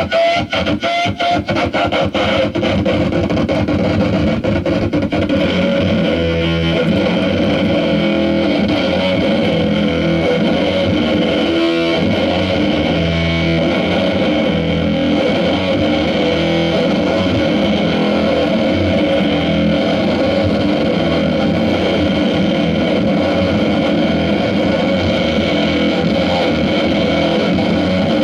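Instrumental noise music played live on a heavily distorted, effects-laden guitar. A fast stuttering pulse in the first few seconds gives way to a loud, dense, steady drone of held tones.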